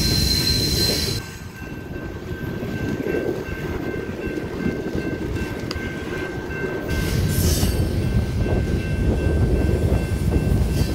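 Freight train of covered hopper cars rolling past: a steady low rumble of wheels on rail, with a high wheel squeal in the first second and again about seven seconds in. The rumble grows louder from about seven seconds.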